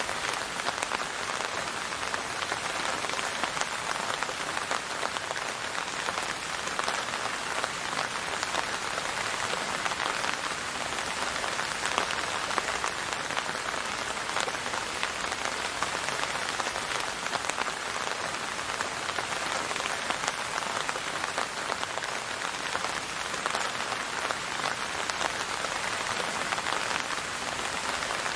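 Steady rain falling on a surface, an even hiss made up of many fine drop patters, with no thunder or music.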